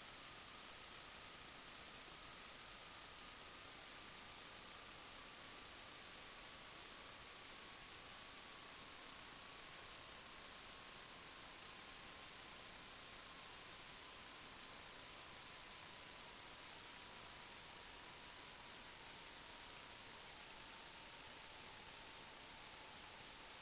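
Steady high-pitched electronic whine over even hiss, with a fainter lower tone that slowly falls in pitch.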